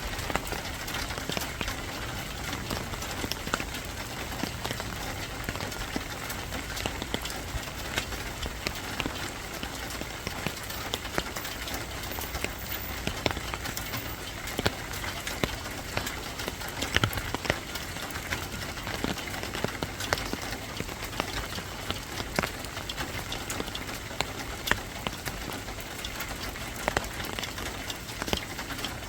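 Steady rain falling, with frequent sharp, irregular drops tapping on a surface.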